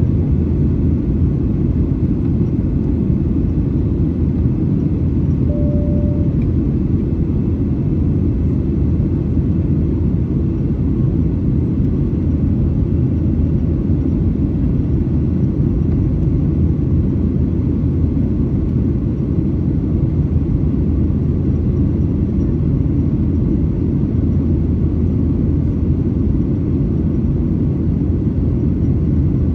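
Steady cabin rumble of a Boeing 737-900ER with CFM56-7B engines, heard from inside the cabin, even and unchanging in level. A brief faint tone comes in about six seconds in.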